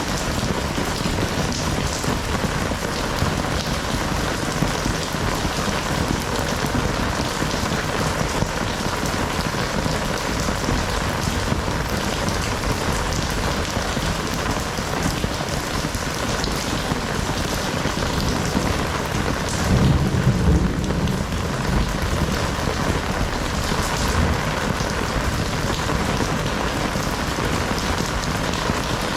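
Heavy rain falling in a steady, dense hiss. About two-thirds of the way through, a brief low rumble swells up for a couple of seconds.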